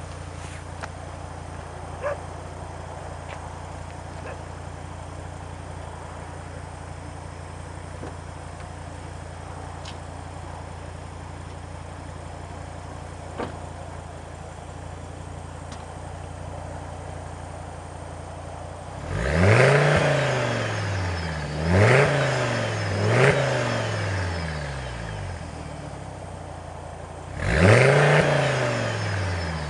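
Audi TT RS five-cylinder engine idling steadily through its exhaust, then blipped: three quick revs that rise and fall back to idle, and a fourth near the end.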